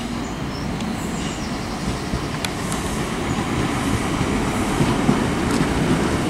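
Class 465 Networker electric multiple unit running into the station along the platform. The rumble of its wheels and running gear grows steadily louder as it draws level, with a few faint clicks.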